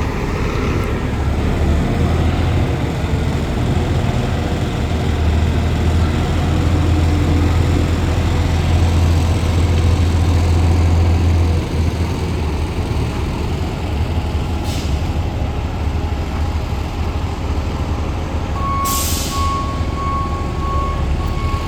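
A heavy truck's engine drone that cuts off suddenly about halfway through. Near the end comes a short air-brake hiss, then a reversing beeper beeping at a steady pace.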